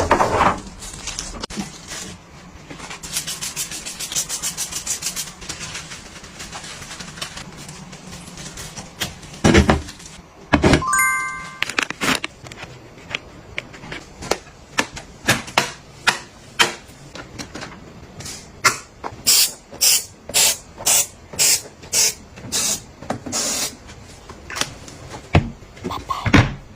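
Household items being handled: a run of sharp clicks and taps, several a second in the second half, with rustling near the start and a short bright chime about ten seconds in.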